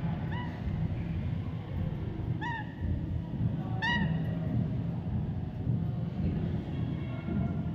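A white parrot gives three short, arched calls a second or two apart, the last one the loudest, over a steady low rumble.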